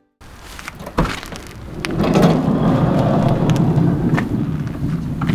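Heavy rain falling, with scattered sharp drip-like taps and a loud low rumbling wash that swells about two seconds in and cuts off abruptly near the end.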